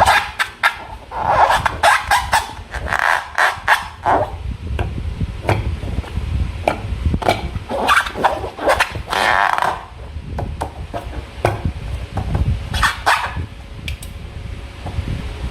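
Slime being squished and worked by hand: irregular sticky clicks and short squelching bursts.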